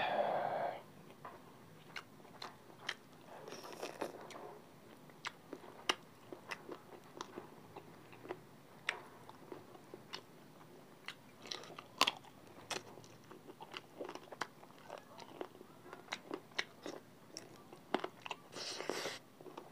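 Close-miked eating of spicy chicken feet by hand: biting and chewing with many sharp, irregular crunchy clicks of the feet's cartilage and small bones, and wet mouth noises. A louder noisy sound comes at the very start, and two longer noisy smears come about four seconds in and near the end.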